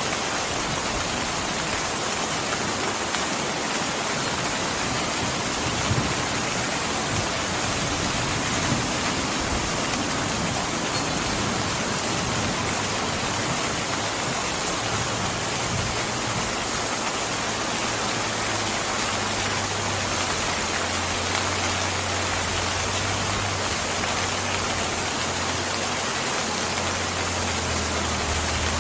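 Steady, even rain. Two brief sharp pops come about 6 and 9 seconds in, and a low rumble rises in the second half.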